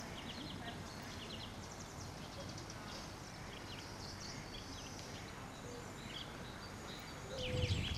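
Small birds chirping in short, high calls over a steady background hiss, with a louder low rumble starting near the end.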